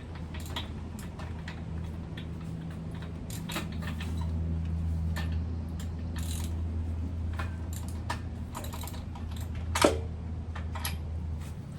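Irregular light metallic clicks and clinks of a spark-plug socket and wrench loosening and drawing out a small engine's spark plug, with one sharper knock near the end, over a steady low hum.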